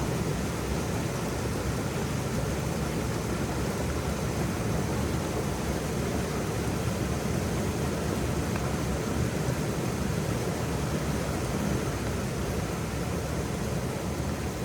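Waterfall: a steady, deep rush of falling water with no breaks.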